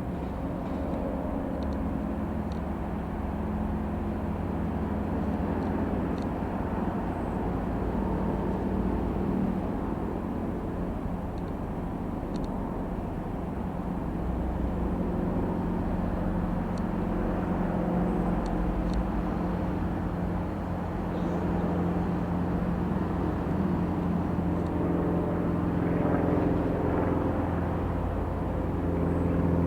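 Engine of a light propeller airplane running as it flies over, a steady hum that shifts slowly in pitch and grows a little louder near the end.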